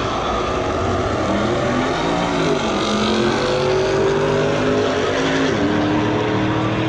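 Drag-racing cars accelerating hard down the quarter-mile strip at full throttle. The engine pitch climbs and then drops at gear changes, about two and a half and five and a half seconds in.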